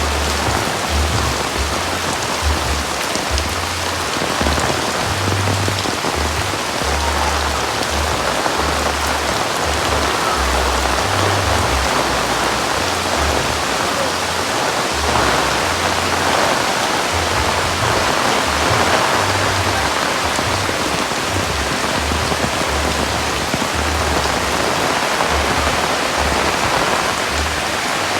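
Heavy rain falling steadily, with a low rumble that comes and goes underneath.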